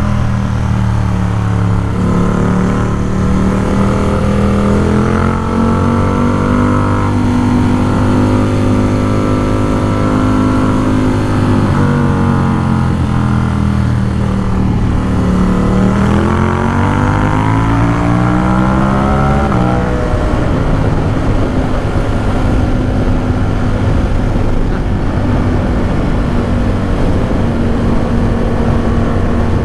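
Ducati Supersport 950 S's 937 cc Testastretta L-twin engine pulling under way, its pitch climbing, holding, dipping and climbing again. About twenty seconds in the rising note gives way to a steady rush of wind noise over a faint even engine tone.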